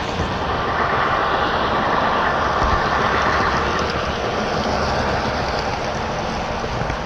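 HO scale model train running along the track, a steady rolling noise that swells over the first few seconds and then eases off.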